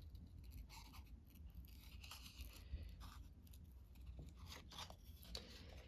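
Faint, scattered scratching and light ticks of a pen or marker working on an index card, over a low steady hum.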